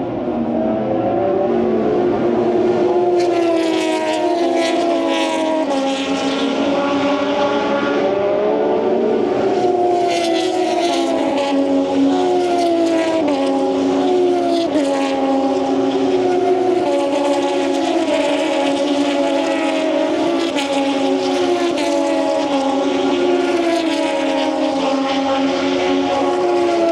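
A pack of racing motorcycles passing one after another. Their engine notes overlap and keep falling in pitch as bike after bike goes by.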